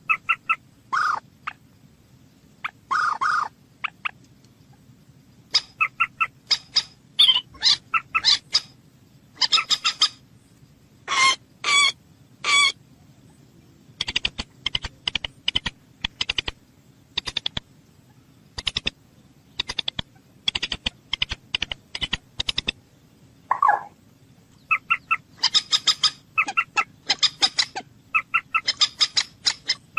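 Common moorhen calling: a run of short, harsh, repeated calls, with quick clicking notes in the middle stretch.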